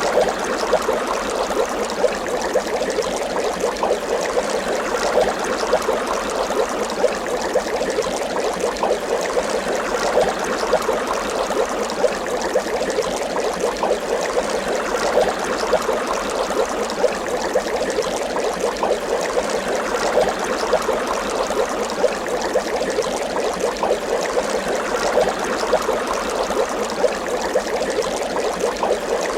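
Water bubbling steadily, a dense run of small bubbles gurgling without pause.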